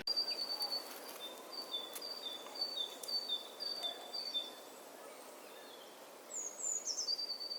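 A small songbird singing a repeated two-note phrase, a higher note followed by a lower one, about seven times over some four seconds. Near the end a few quick falling high notes and a held note follow.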